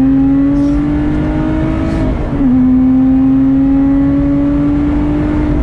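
Lotus Exige's supercharged V6 accelerating hard, its note climbing steadily in pitch. About two seconds in comes an upshift, where the note drops and then starts climbing again.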